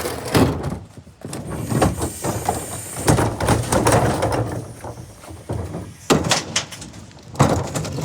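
Garbage truck compacting its load: irregular metal bangs and clatter over a low engine hum.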